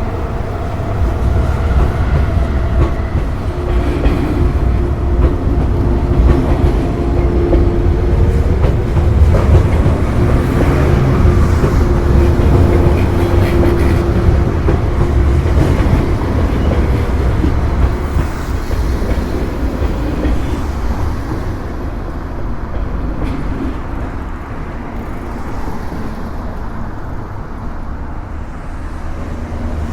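JR East 185 series electric train passing close by. It is loudest in the first half, then fades through the last ten seconds or so as it moves away.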